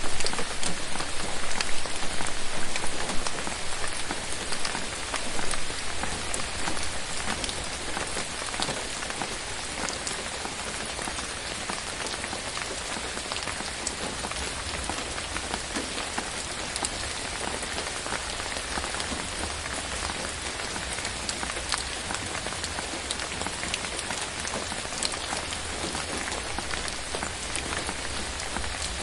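Steady rain falling, a dense patter of individual drops. It is heavier for the first few seconds, then settles to an even level.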